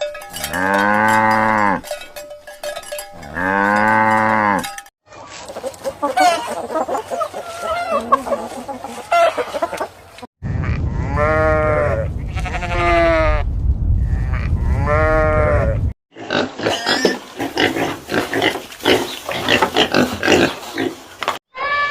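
A string of farm animal calls from several clips cut together. First two long calls, then a stretch of mixed animal noise, then three shorter calls over a low rumble, then more mixed noise.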